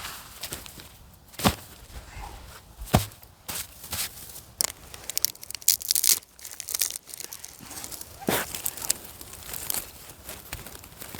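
Irregular crunching, tearing and rustling noises with a few sharper knocks spread through.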